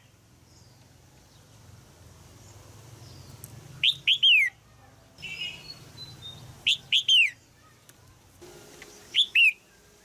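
Red-whiskered bulbul calling: three short phrases a few seconds apart, each of two or three quick notes sliding down in pitch, with a softer chatter between them.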